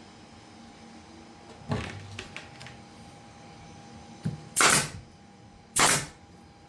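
Wooden pieces being handled and pressed into place on a glued plywood backer: a thump, a few light clicks, then two short, sharp, loud noise bursts a little over a second apart.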